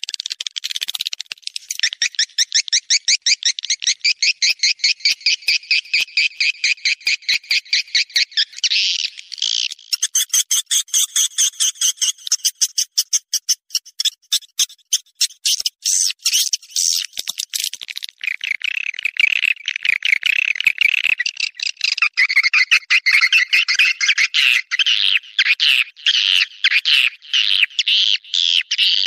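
Swiftlets giving their mating call: a continuous, rapid chittering twitter made of fast trains of short, clicky chirps, the kind of swiftlet call played to draw the birds in.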